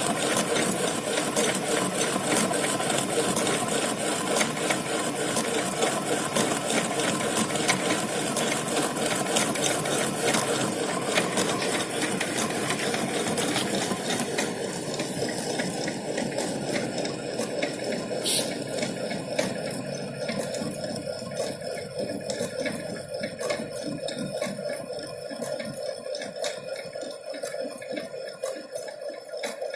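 Centre lathe running with the cutting tool on longitudinal feed, turning down the diameter of a bar in a straight-turning cut. It makes a steady, dense mechanical rattle of fine ticks that grows gradually quieter through the second half.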